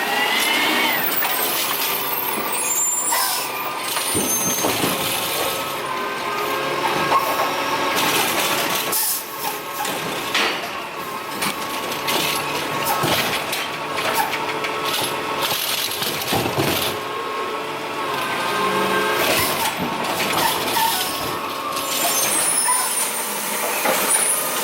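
Curbtender automated side-loader garbage truck working its route: engine and hydraulic whine with a steady tone, rising at the start, air brakes hissing, and repeated knocks from the lift arm and carts.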